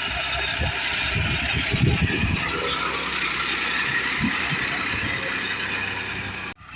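Massey Ferguson 7250 DI tractor's diesel engine running steadily.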